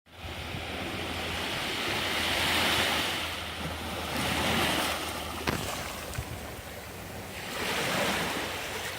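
Sea waves washing onto the shore, the surf swelling and falling back three times, with wind rumbling on the microphone. A single sharp click about five and a half seconds in.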